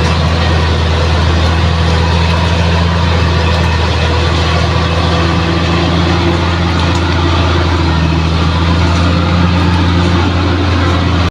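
Bulldozer's diesel engine running at a steady, unchanging pitch, a deep continuous drone.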